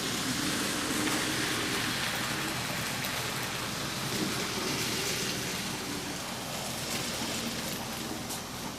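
HO scale model train running along the track: a steady rolling hiss of small wheels on rail with a faint motor hum and a couple of light clicks near the end.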